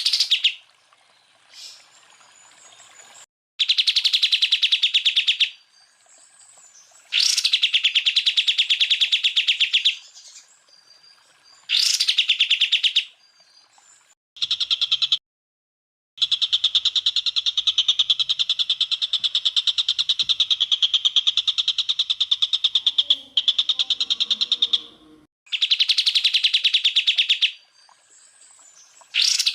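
Cucak ijo (green leafbird) singing in loud, very fast trilled bursts, the rapid-fire 'tembakan' phrases used as a masteran song to train cage birds. Several bursts of two to three seconds and one long burst of about seven seconds in the middle, each stopping abruptly.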